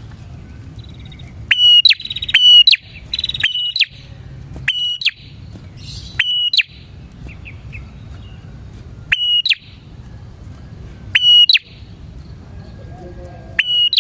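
A prinia (prenjak) singing loud, sharp repeated phrases, about seven of them at uneven gaps. Each phrase is a piercing note that flicks quickly upward at the end.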